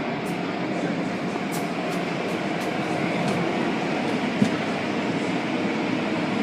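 Car wash running steadily, a continuous rushing noise of water spray and machinery, with a few light ticks and one short knock about four seconds in.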